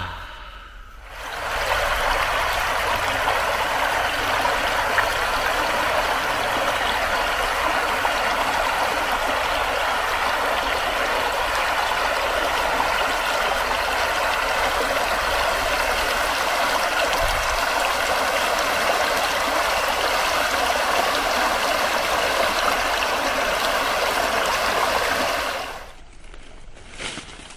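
Flowing water of a stream, a steady rush that swells in over the first two seconds and cuts off abruptly about two seconds before the end.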